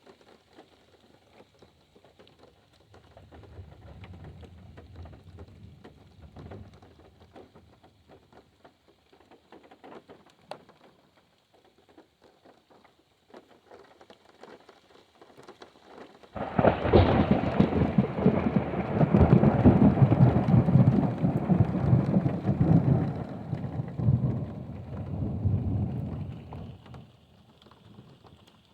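Rain pattering on a car, with a faint low rumble of distant thunder a few seconds in. About sixteen seconds in a loud clap of thunder breaks suddenly and rolls on for around ten seconds before fading.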